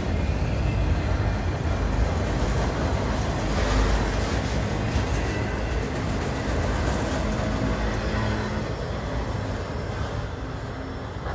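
Autorack freight cars rolling past, with a steady rumble and clatter of wheels on the rails that fades as the last car goes by near the end.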